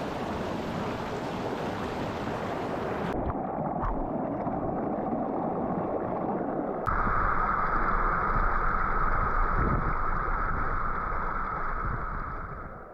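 Deschutes River water rushing in a steady hiss. The sound changes abruptly twice, about three and seven seconds in, growing louder and brighter after the second change, then fades out near the end.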